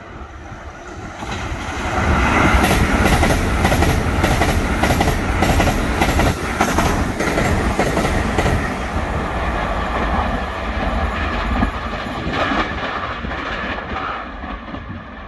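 TRA EMU900 electric multiple unit passing at high speed: a rush of wheels on rail that builds about a second and a half in, with a rapid clickety-clack of wheels over rail joints, easing off near the end.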